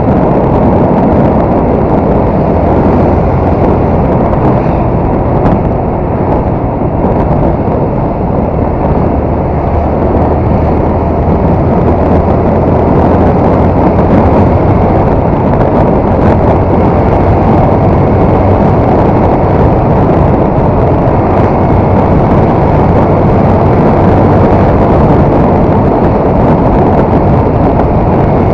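Honda MSX 125 being ridden: heavy wind rush over the action camera's microphone, with its single-cylinder engine running steadily underneath.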